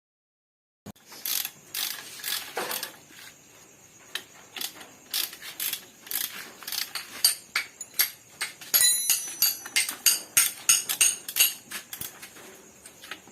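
Metal tools and engine parts clicking, clinking and knocking in quick, irregular strokes, starting about a second in, with a few short ringing metallic notes later on.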